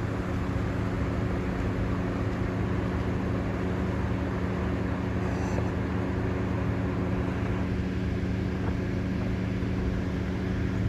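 Vehicle engine running at a steady speed, a constant low drone with road and wind noise.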